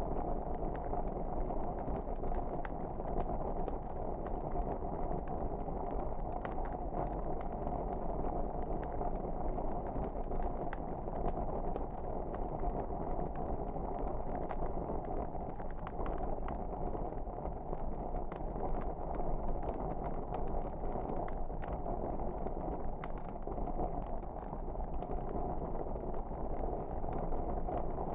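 Wood fire burning in a fireplace: a steady low rushing of flames with many scattered small crackles and pops.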